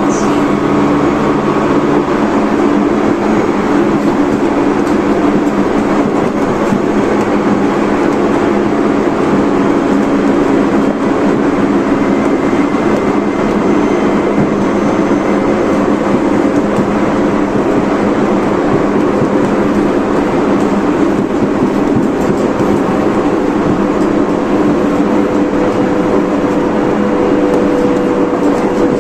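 Tobu 30000 series electric train running steadily at speed, heard from inside the car: an even rumble of wheels on rail with a steady low motor hum and a faint higher tone over it.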